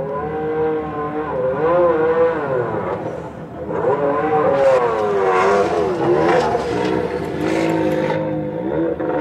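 Rally-raid car engine revving in repeated surges as the car drives slowly past, its pitch rising and falling. It grows louder about four seconds in.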